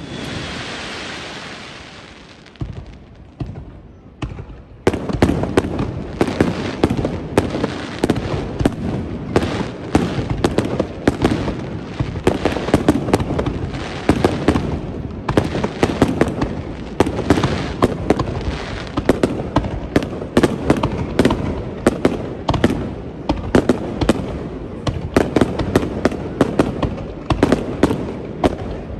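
Aerial fireworks display: a crackling shower fades out, a few scattered bangs follow, then from about five seconds in comes a rapid, continuous barrage of shell bursts and crackles, several a second.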